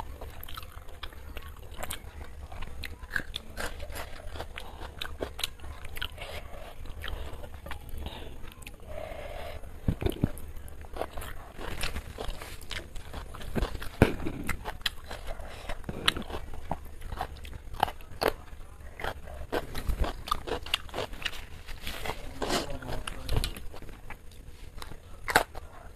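Close-miked chewing and wet mouth sounds of someone eating chicken biryani by hand, with fingers working the rice on a plate. Many small clicks and crackles throughout, a louder crunch about 25 seconds in from a bite of raw cucumber.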